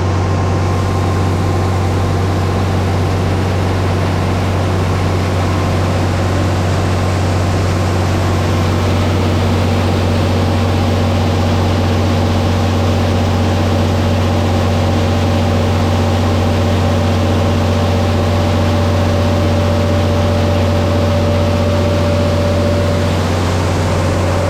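Steady, loud drone of farm machinery running at the grain bin while a wagon of soybeans is unloaded, a constant low hum with no change in pace.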